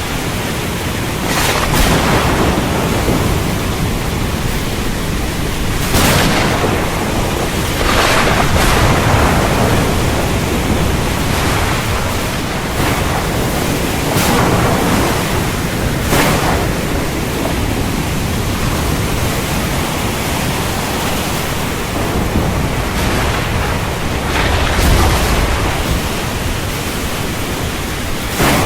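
Heavy rainstorm: rain falling steadily, with brief louder surges every few seconds and a low rumble of thunder near the end.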